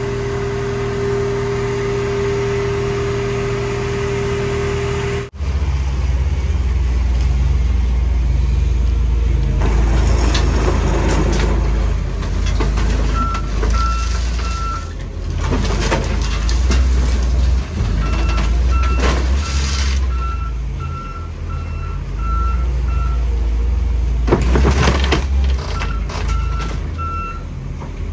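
Heavy diesel machinery running with a deep low rumble, its backup alarm beeping in runs from about halfway through, with several loud surges of rushing noise. Before that, a steady whining tone cuts off abruptly about five seconds in.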